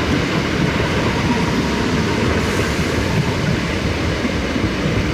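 Class 455 third-rail electric multiple unit passing close by, its wheels running on the rails in a steady, loud noise.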